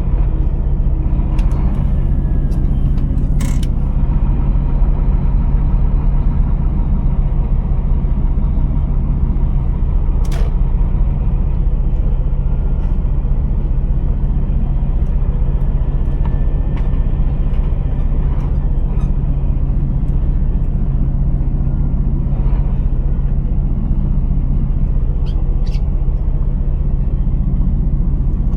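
Scania R480 truck's diesel engine running with a steady low drone, with a few short sharp clicks, the clearest about ten seconds in.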